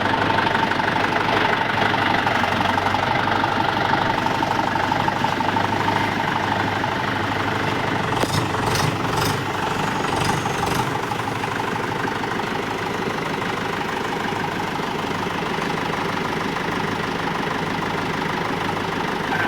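Tractor engine running steadily, heard from on board the tractor.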